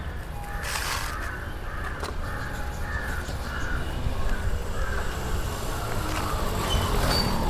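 A bird calling in a quick run of short, harsh, repeated calls through the first five seconds or so, over a steady low rumble.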